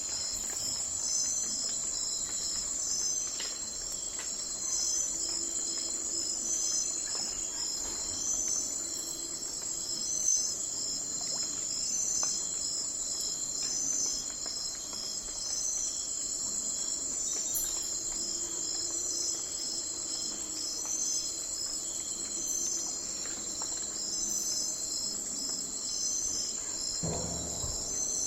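Night forest ambience: a steady, high-pitched chorus of chirping insects, with pulses of chirps roughly once a second. A short low sound stands out near the end.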